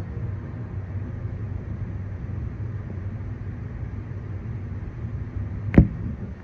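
Coal train rolling past with a steady low rumble. A single sharp click comes near the end.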